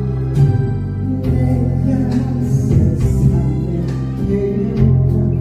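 Instrumental interlude of a Korean pop-ballad backing track between sung lines: steady bass and chords with guitar over a regular drum beat.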